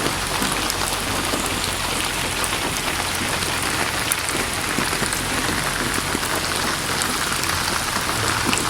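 Steady rain falling, an even hiss with scattered drop patter and no let-up.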